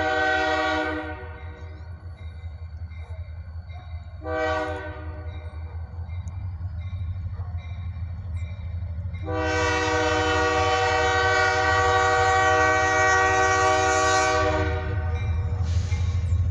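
Freight train's multi-chime air horn sounding four blasts: one of about a second and a half, a short one, a long blast of about five seconds, and a faint short one near the end. A steady low rumble from the EMD diesel locomotives runs underneath.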